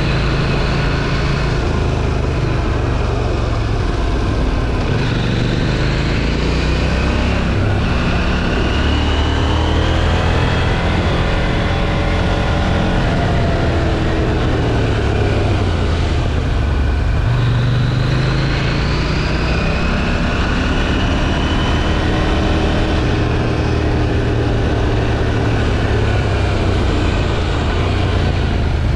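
KTM 790 Duke's parallel-twin engine through its stock exhaust, under way on the road, its revs climbing and dropping several times as the bike accelerates and rolls off.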